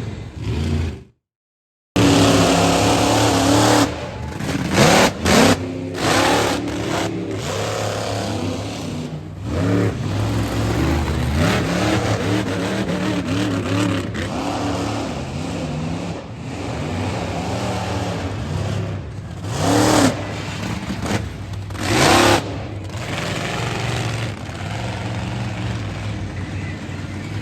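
Monster truck engines running hard and revving repeatedly, the pitch climbing and falling with the throttle, with a few brief louder surges. The sound cuts out completely for about a second near the start.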